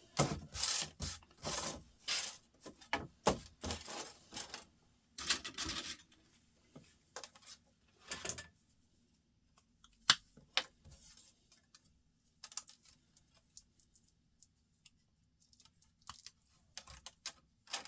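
Small metal screws and laptop parts clicking and rattling as a laptop is taken apart by hand. The clatter is busy for the first six seconds, then thins to scattered single clicks, with one sharp click about ten seconds in.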